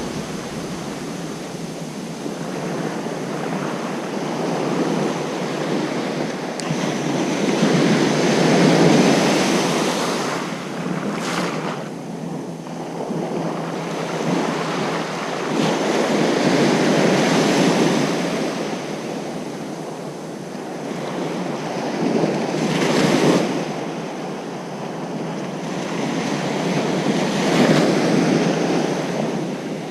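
Ocean surf breaking on a beach, with waves swelling and washing in one after another every several seconds.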